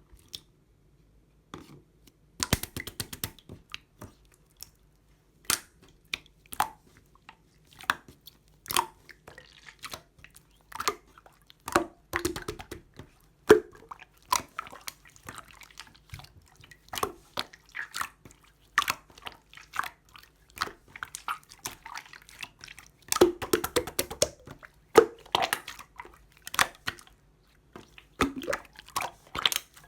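Blue marbled slime being played with by hand: a long run of irregular sticky clicks and pops, thickening into denser crackling bursts at times.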